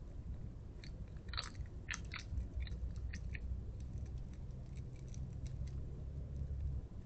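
A small mammal crunching and chewing hard food such as peanuts: a quick run of sharp, irregular crunches about a second in, then fewer and fainter ones. A low steady rumble sits underneath through most of it.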